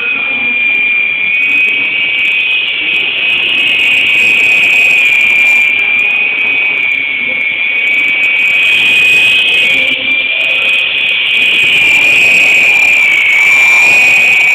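Electric motors of a 3-channel toy RC Apache helicopter spinning its rotors in flight: a steady high-pitched whine that wavers slightly in pitch as the throttle changes, dipping a little near the end.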